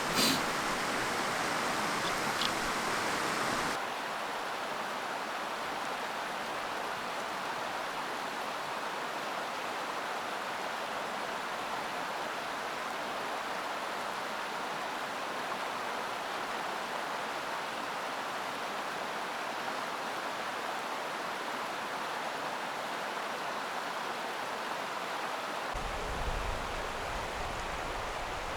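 Mountain stream rushing steadily over rocks. The sound drops slightly about four seconds in, and a low wind rumble on the microphone comes in near the end.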